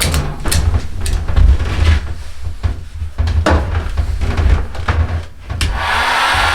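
Hand tool worked in repeated strokes along a yew bow stave, roughly two scraping strokes a second. Near the end a steady blowing hiss takes over.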